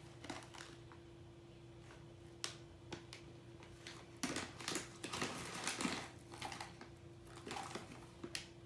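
Hamster nibbling and chewing food: scattered tiny crunches and clicks, coming thick and fast in a busy patch around the middle.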